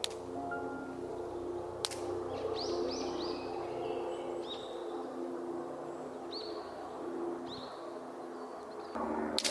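Small birds chirping: a series of short, high, quick calls, several in a cluster and then single ones. Three sharp clicks stand out, and soft steady low tones run beneath.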